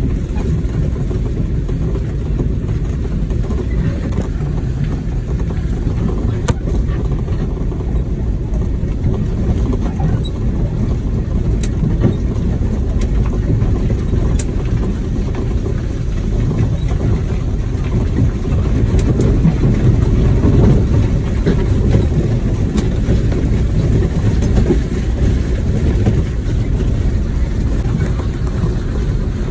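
Land Rover Series driving on a rough dirt track: a steady low engine drone with a few sharp clicks or knocks scattered through it.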